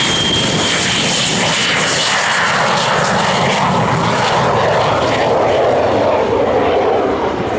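Single-engine de Havilland Vampire jet with its Goblin turbojet, flying a pass. A high whine fades within the first two seconds, then a loud rushing jet noise drops steadily in pitch as the aircraft goes by.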